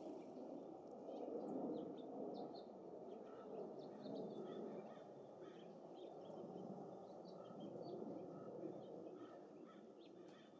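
Small songbirds giving scattered short chirps and calls, with a run of short repeated notes through the middle, over a steady low rush of gusty wind.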